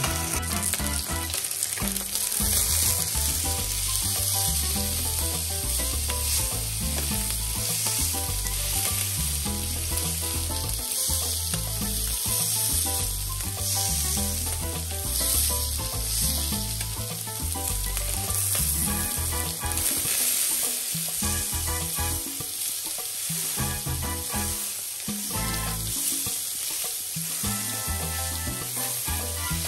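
Salmon steaks frying in oil in a nonstick pan, sizzling steadily as they sear.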